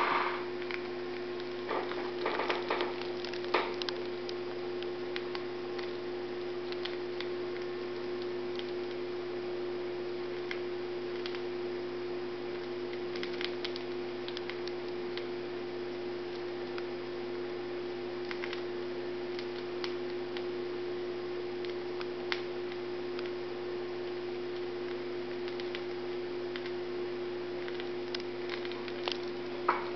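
Cockatiel biting and crunching a piece of chocolate cereal held in its foot: faint, irregular little clicks and crunches, a few louder ones in the first few seconds, over a steady electrical hum.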